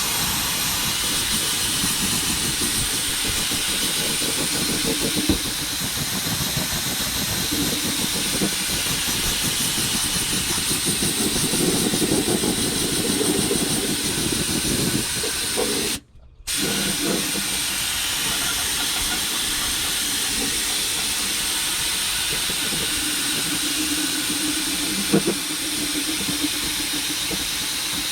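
Air-powered undercoating spray gun hissing steadily as it sprays rubberized undercoating onto a truck's underside. The hiss stops abruptly for a moment about sixteen seconds in, then resumes.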